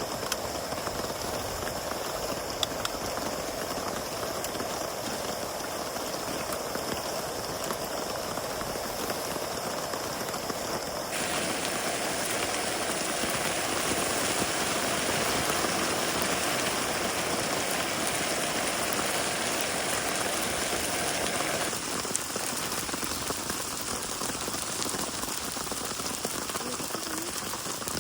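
Steady rain falling, with scattered separate drops ticking. The rain sound changes abruptly twice, growing brighter and a little louder about a third of the way in and dropping back again later.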